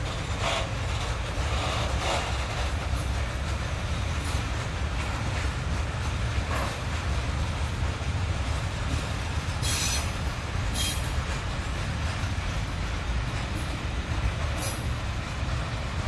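Freight train of tank wagons rolling past with a steady low rumble. Brief high wheel squeals cut in now and then, the strongest about ten and eleven seconds in.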